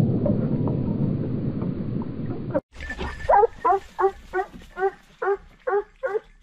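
A low rumbling noise fades and cuts off abruptly, then a hunting dog barks repeatedly, about nine short pitched barks at two to three a second.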